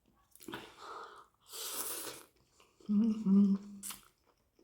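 Close-up eating sounds: chowmein noodles slurped in with a hissing suck, then a short, loud closed-mouth "mmm" hum of enjoyment, and a small click near the end.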